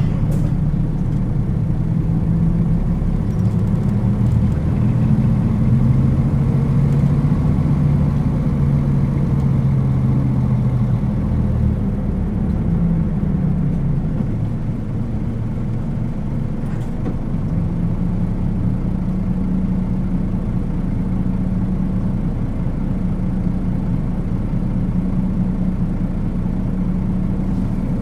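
Diesel engine of a Nissan Diesel KL-UA452KAN city bus, heard while riding: the engine note climbs and holds under power for the first dozen seconds, falls away as the bus eases off, then settles into a steady lower hum for the rest.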